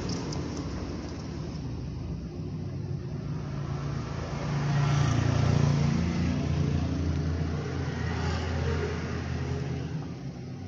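Low engine rumble of a motor vehicle, growing louder about halfway through and then easing off.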